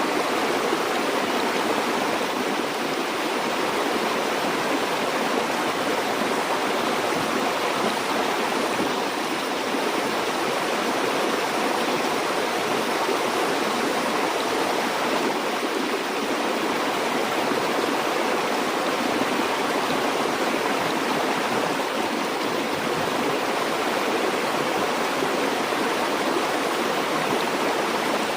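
Stream water flowing and rushing steadily over rocks, a continuous even wash of water noise with no breaks.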